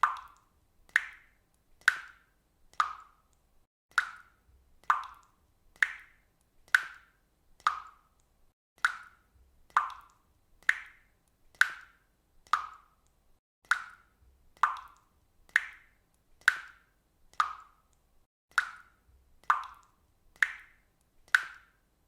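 Water dripping, single drops falling into water in a steady, even rhythm of about one plop a second.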